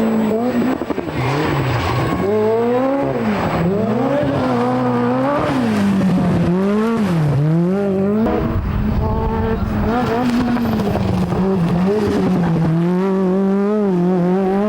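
Peugeot 205 T16 Group B rally car's turbocharged 1.8-litre four-cylinder engine driven hard, its revs climbing and dropping every second or two as the driver works the throttle and gears.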